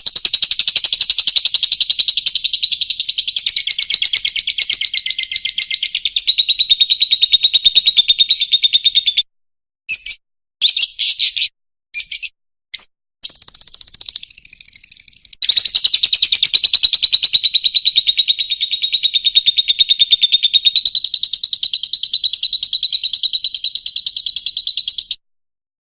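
Fischer's lovebird singing: a loud, rapid, high-pitched chattering warble in two long unbroken runs, separated by a few seconds of short bursts.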